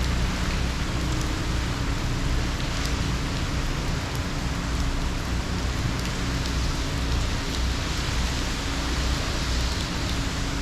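Steady, heavy hurricane rain falling, with a low rumble underneath.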